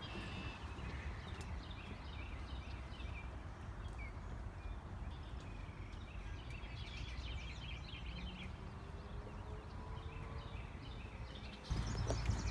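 Small birds chirping and singing over a steady low rumble of wind and walking. About a second before the end, louder footsteps start, thudding on the trail.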